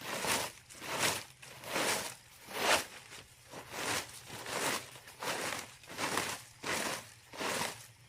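Rhythmic scraping strokes, a little more than one a second, each a short hiss.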